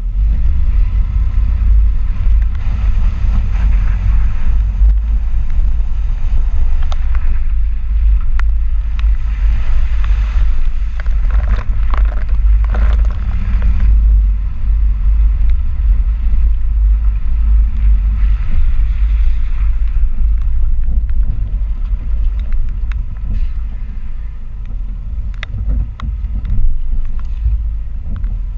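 Ford 4x4 pickup truck on the road: a heavy, steady low rumble of road and wind noise, with short rattles and clicks, thickest about a third of the way in.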